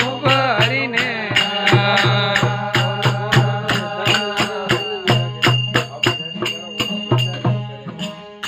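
Rajasthani devotional folk bhajan music: a singing voice over an even beat of sharp percussion clicks, about four a second, and a low pulsing accompaniment. The voice drops out about halfway, leaving the instruments.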